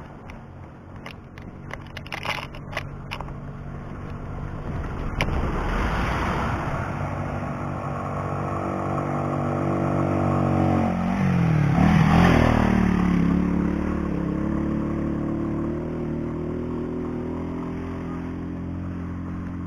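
A motor vehicle's engine grows louder, is loudest about twelve seconds in, where its pitch dips and then comes back up, and runs on steadily after that. A few short clicks come in the first three seconds.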